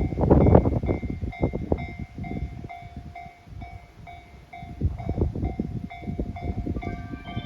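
KiHa 122 series diesel railcar rolling along the track, its wheels clacking over rail joints in irregular knocks, loudest in the first second, over a low rumble. A faint ringing tone repeats evenly underneath.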